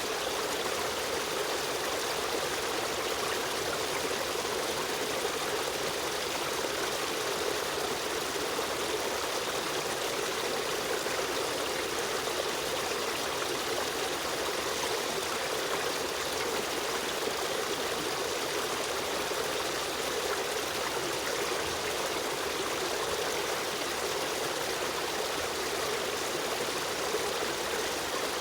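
River stream running steadily over rocks, a continuous rushing and trickling of flowing water.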